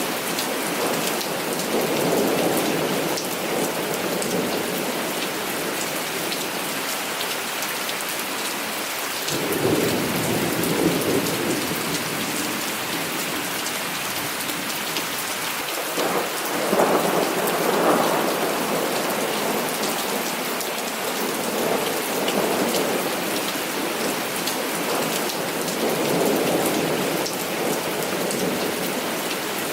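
Heavy rain falling steadily, with several rolls of thunder rumbling beneath it. The strongest rolls come about a third of the way in and just past halfway.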